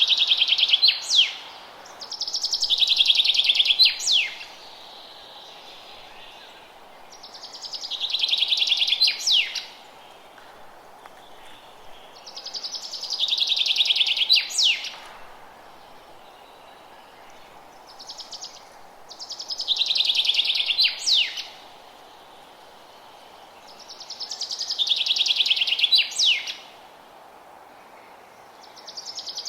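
A songbird singing the same trilled phrase over and over, about every five seconds; each phrase swells in loudness and ends in a few sharp notes. A steady faint hiss lies underneath.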